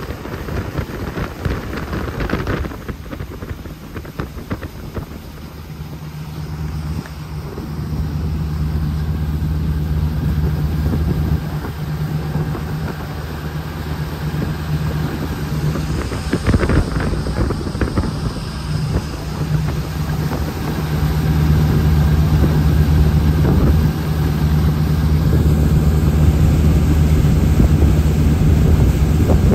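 Jet boat engine running steadily under way, its low drone growing louder about six seconds in and again past twenty seconds, with wind rushing over the microphone.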